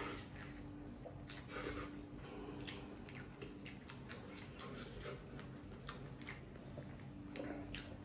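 Faint close-miked chewing of noodles: wet mouth smacks and small clicks, a few a second.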